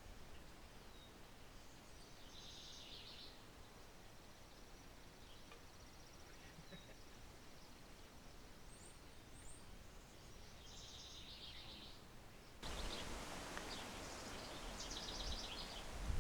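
Faint outdoor background with small birds chirping in short rapid trills, three times. About three-quarters of the way through, a louder even rushing noise comes in and stays.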